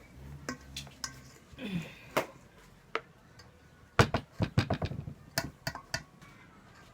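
Mixing utensil knocking against a bowl as dry cookie ingredients are stirred: a few scattered clicks, then a quick run of knocks, about five a second, starting about four seconds in and lasting some two seconds.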